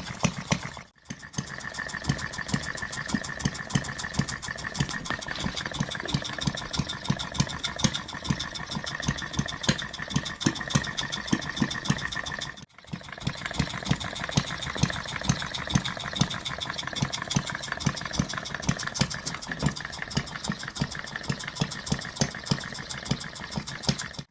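1/8-scale model Reid single-cylinder two-stroke engine running on propane, a quick, regular train of sharp firing beats. The sound drops out briefly twice, about a second in and again near the middle.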